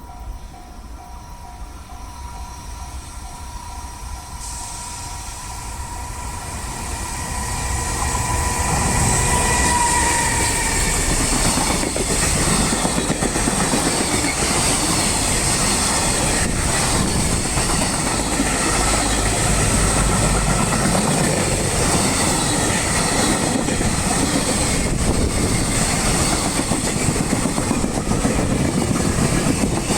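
A level crossing warning bell ringing its repeating tones, then a train coming up and running past close by from about eight seconds in. It stays loud to the end, its wheels clacking over the rail joints.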